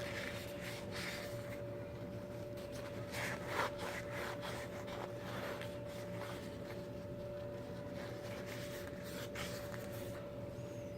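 Paper towel rubbing and wiping inside a carburetor float, with soft handling noises that come and go, a few a little louder about three to four seconds in, over a steady faint hum.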